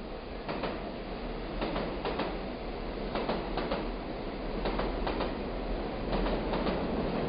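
Train rolling along the track: a steady rumble with the wheels clacking over rail joints, the clacks coming irregularly and often in pairs.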